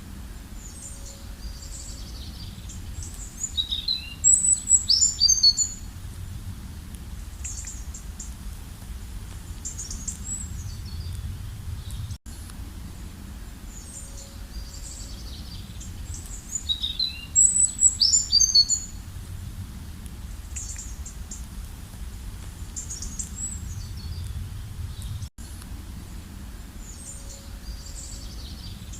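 Small birds chirping and calling in short high notes, with a louder burst of quick twittering twice, over a steady low rumble.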